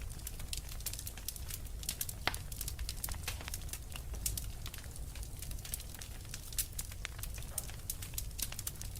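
Wood fire in a fireplace crackling, with a steady scatter of small sharp pops over a low rumble of flame and one louder pop about two seconds in.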